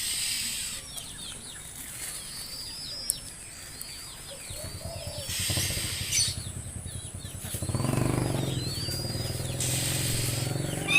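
Birds chirping in short repeated phrases every couple of seconds. A motor engine hum, likely a passing motorcycle, rises from about halfway through.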